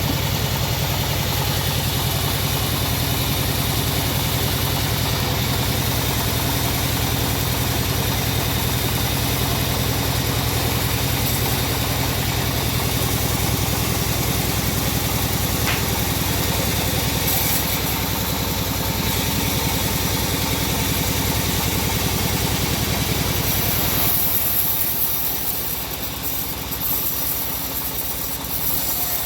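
Engine of a homemade bandsaw sawmill running steadily with a dense, even low drone. About 24 s in the low drone drops and a higher hiss comes up.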